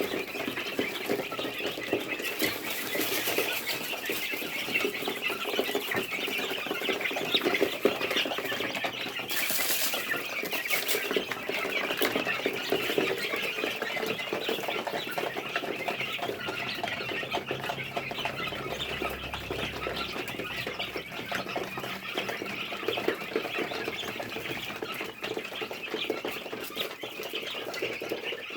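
A flock of 25-day-old Fayoumi chicks calling continuously, with scattered clicks of beaks pecking at feed.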